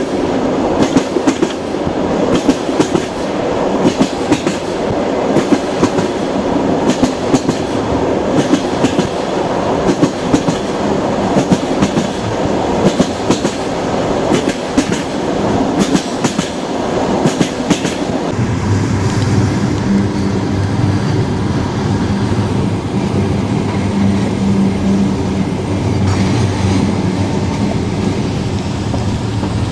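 Wheels of a passenger train clacking over rail joints, heard from inside the carriage, with a steady running rumble. About two-thirds of the way through the clacks die away and a steady low hum takes over.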